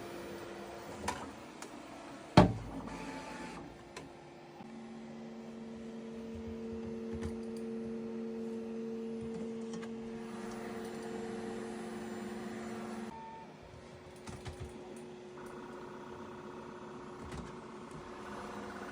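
Bambu Lab P1S 3D printer running its start-up calibration: its motors give steady whining tones that jump to new pitches a few times, over a soft fan hiss. One sharp knock about two and a half seconds in is the loudest sound.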